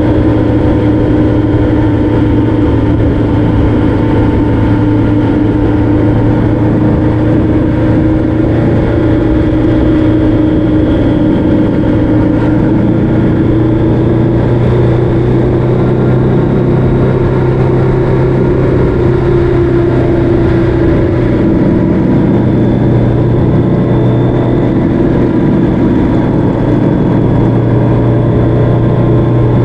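Motorcycle engine running steadily at cruising speed on the road. Its note dips slightly a little past halfway, then comes back up.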